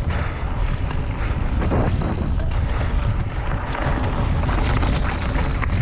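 Scott Genius 900 Tuned mountain bike being ridden over a rocky trail: wind rushing over the camera microphone, tyre and drivetrain noise, and many small knocks and rattles from the bike on the rough ground.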